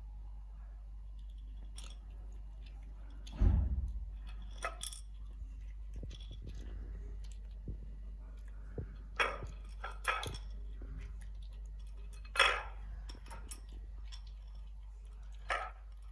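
Scattered light clinks and knocks, with a heavy low thump about three and a half seconds in and a few louder short knocks later, over a steady low rumble.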